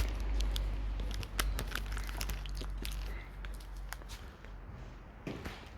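Many small clicks and crinkling noises close to the microphone, over a low rumble that fades away during the first few seconds.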